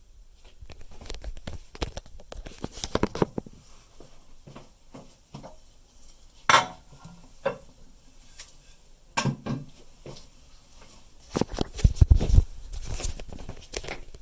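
Irregular clinks, knocks and rustles of hard parts being handled at a Jacuzzi Primo toilet tank, with no flush running. There is a sharp knock about six and a half seconds in and a burst of heavier knocks near the end.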